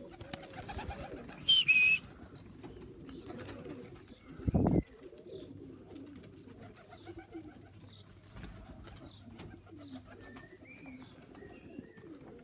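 Racing pigeons cooing, with a continuous low warbling. A short, loud high chirp comes about a second and a half in, and a single thump a little after four seconds.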